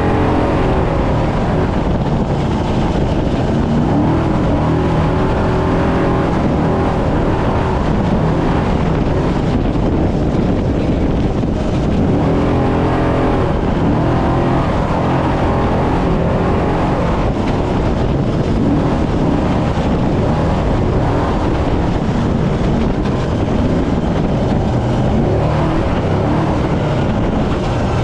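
Brenthel Class 6100 trophy truck engine running hard, its pitch rising and falling repeatedly as it accelerates and eases off over the desert terrain.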